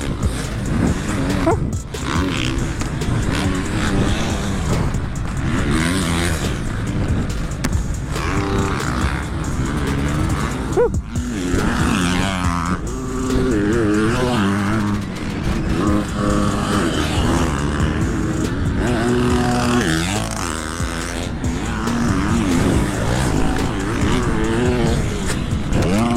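Dirt bike engine running and revving, its pitch rising and falling again and again.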